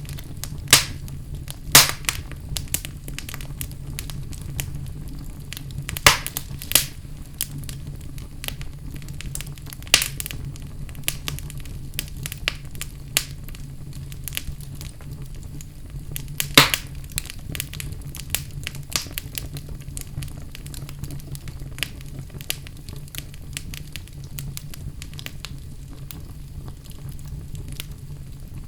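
Wood fire burning in a fireplace: a steady low rumble of flames with irregular crackles and sharp pops. The loudest pops come near the start, around six seconds in, and around sixteen seconds in.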